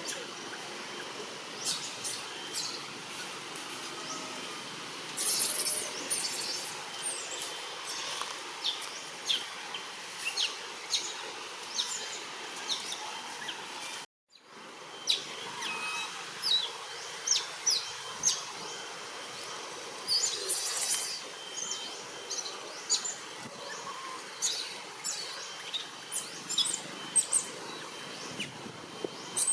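Many short, high-pitched chirps and squeaks from small animals over a steady outdoor hiss, with a brief cut-out about fourteen seconds in.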